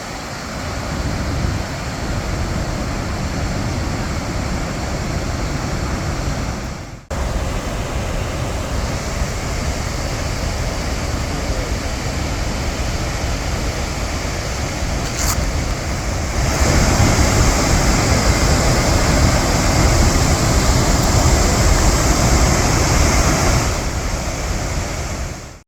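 Steady rushing of the Gullfoss waterfall, a dense noise of falling water with no pitch. It breaks off for an instant about 7 seconds in, grows louder about two-thirds of the way through, and stops abruptly at the end.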